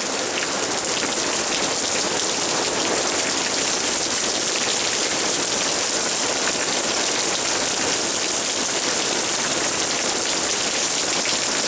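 Heavy, steady rain from a hurricane's outer band coming down hard on the ground, an even hiss of rain with no letup.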